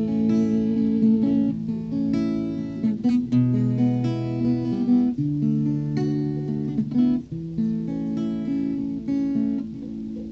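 Acoustic guitar playing chords, plucked and strummed, in the closing bars of a capoeira ladainha. It grows quieter near the end.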